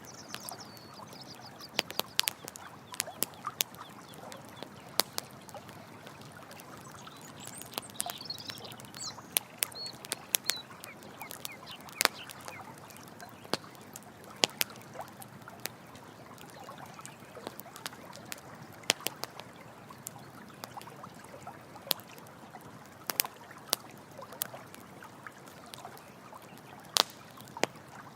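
Campfire crackling with frequent sharp pops over the steady rush of running water. A few high chirps come through about a third of the way in.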